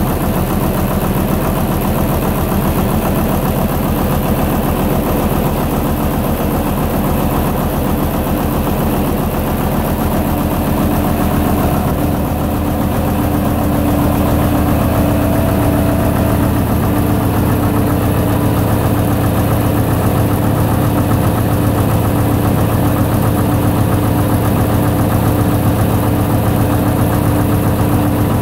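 Gardner LW diesel engine driving a generator, running steadily with an even, knocking firing beat. About twelve seconds in, its low note grows slightly stronger and louder.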